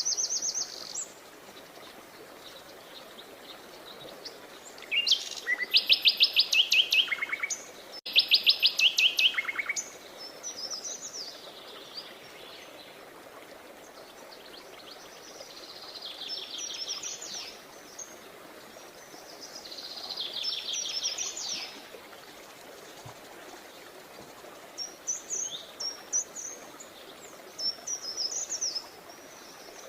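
Songbirds singing: two loud, fast trills of repeated notes that fall in pitch, about five and eight seconds in, softer trills later, and quick high chirps near the end, over a faint steady hiss.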